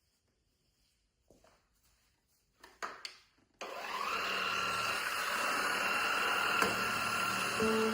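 A few soft handling knocks, then a little under halfway through a Klarpul cordless stick vacuum switches on, its motor spinning up in pitch within about a second and settling into a steady whine.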